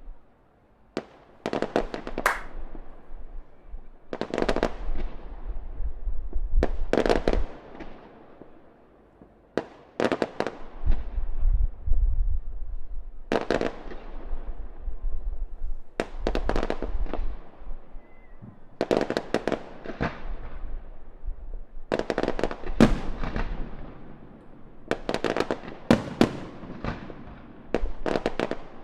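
Fireworks display: aerial shells bursting in quick irregular clusters of sharp bangs, each trailed by echoing rumble, with short lulls between volleys.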